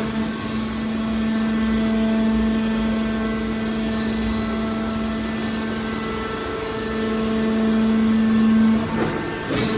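Scrap metal baler's hydraulic power unit running with a steady motor drone, with a clunk near the end.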